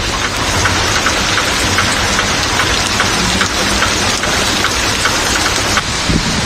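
Heavy rain pouring onto a street, a dense steady hiss with scattered taps of drops, over the low hum of car engines.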